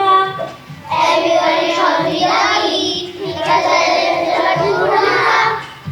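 A group of young children singing loudly together, with music behind them. The many voices sound as one dense mass from about a second in until just before the end.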